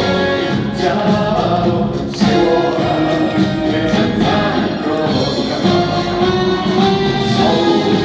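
Live concert music: a trot song played loud by a band, with singing voices over it.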